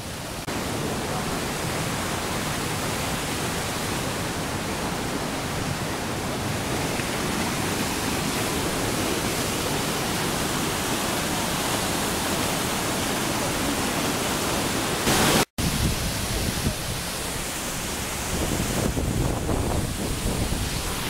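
A waterfall, heard as a steady, loud rush of falling water. The sound cuts out for an instant about fifteen seconds in, then carries on.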